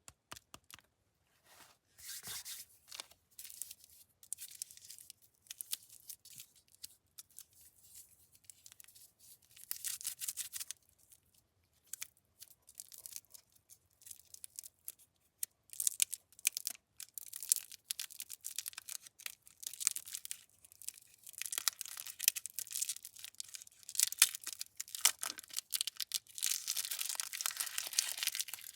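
Candy wrappers being torn open and crinkled, in irregular crackling bursts that grow denser and louder in the second half.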